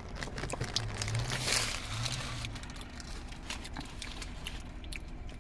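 Soft crinkling and small clicks of a burrito wrapper being handled, with a brief low hummed voice in the middle.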